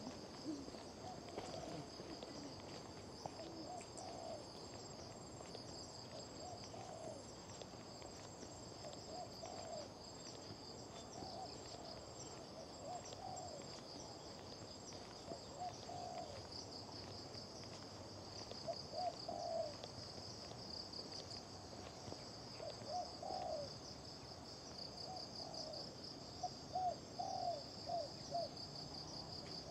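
Insects trilling in a steady high chorus, with short low hooting calls from an animal repeating every second or two and coming more often near the end.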